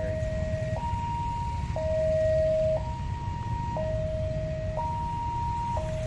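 Railway level-crossing warning alarm: an electronic two-tone signal switching between a low and a high tone about once a second, over a steady low rumble.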